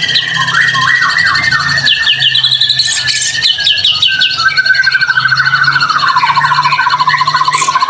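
White-rumped shama (murai batu) singing in full, busy song: fast varied phrases of rapid repeated notes and trills. From about six seconds in, a long, low, rattling trill runs to the end.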